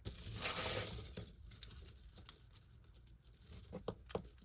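Jewelry being handled and sorted: a brief rustle about a second long, then a few faint light clicks and clinks of metal pieces.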